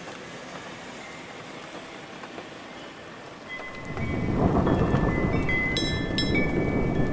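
Steady rain falling, then about four seconds in a roll of thunder comes in and rumbles loudly on to the end. A few faint high ringing tones sound over it.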